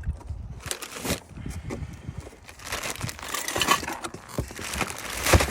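Packaging around new brake rotors being handled: crinkling and rustling with irregular knocks and clatter, and a louder knock near the end.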